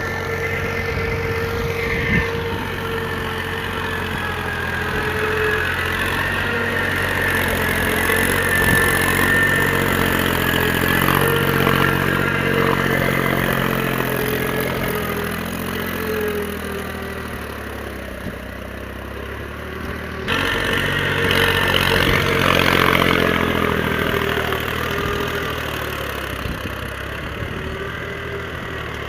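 Mahindra diesel tractor engine running steadily, its pitch slowly rising and falling, with an abrupt break about two-thirds of the way through.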